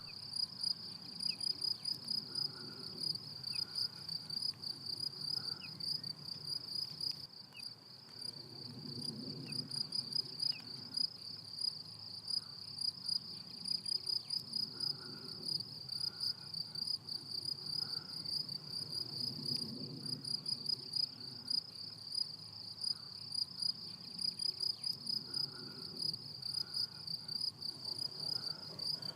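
Crickets chirping in a meadow: a steady, high-pitched run of rapid repeated chirps that keeps going without a break.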